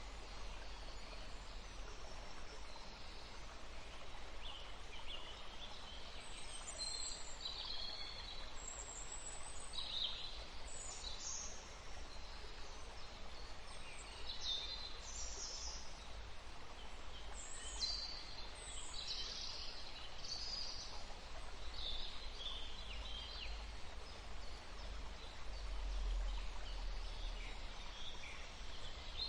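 Several small birds chirping, with many short high-pitched calls overlapping throughout, over a low steady rumble.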